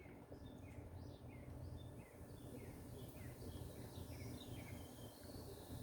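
Faint, repeated high chirps, about two a second, like a small bird calling, over a low steady hum.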